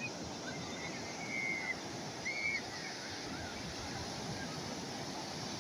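Calm sea waves washing steadily, with a few short high calls about a second and a half and two and a half seconds in.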